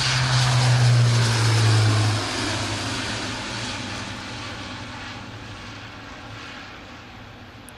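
Airbus A400M Atlas's four turboprop engines at takeoff power as the aircraft passes, a low propeller drone with a wide roar, loudest in the first two seconds and then fading steadily as it climbs away.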